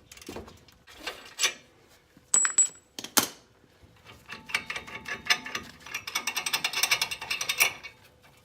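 Socket ratchet clicking rapidly for about three seconds as a bolt on a Ford F-150's front wheel hub is spun out, after a few separate sharp metallic clicks and knocks.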